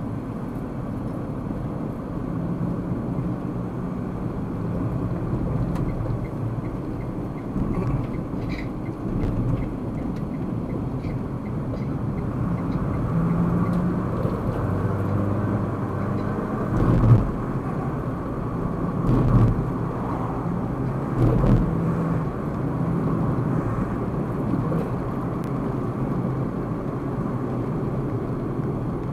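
Steady road and engine noise of a car driving, heard from inside the cabin, with three brief thumps a little past the middle.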